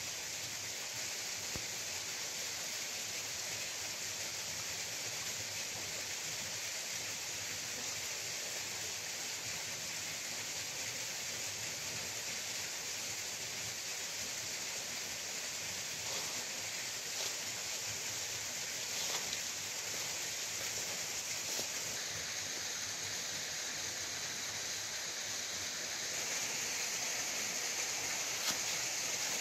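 Steady rush of a waterfall pouring over rocks, with a few faint taps now and then.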